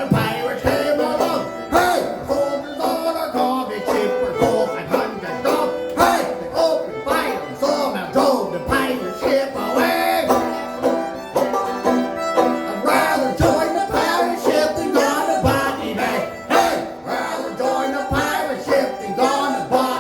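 Folk band playing an instrumental passage of a traditional ballad, with quick plucked string notes to the fore.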